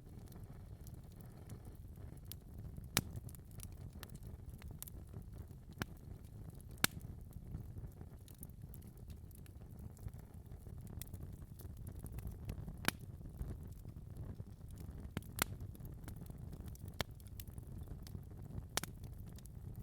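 Fireplace fire crackling over a steady low rumble of flames, with scattered sharp pops, a few louder than the rest.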